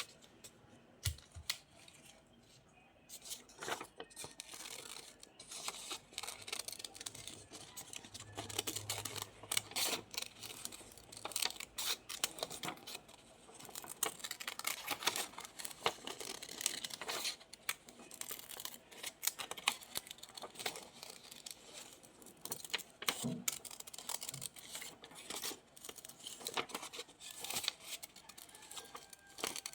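Paper being handled while crafting: a continuous run of short rustles, snips and tearing sounds.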